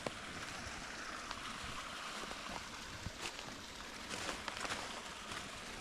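Steady trickle of spring water flowing, with a few faint clicks.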